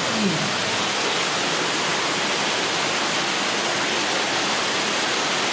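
Steady rushing water, like a waterfall or fountain feature on a mini golf course, an even unbroken noise.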